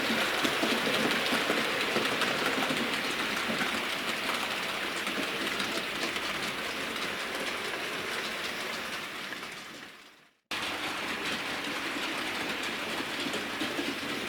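Model railway train running along the track. It fades away and cuts off about ten seconds in, and a second stretch of running starts straight after.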